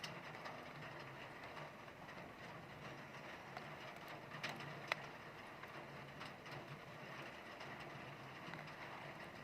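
Heavy rain falling steadily with wind, a constant hiss dotted with sharp drop ticks, one louder tick about halfway through, over a low steady rumble.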